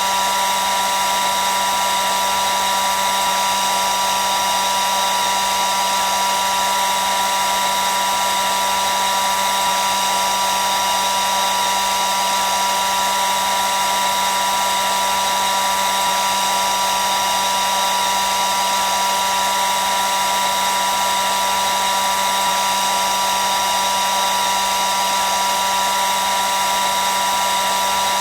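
Hair dryer running steadily: a constant rushing airflow with a steady high motor whine.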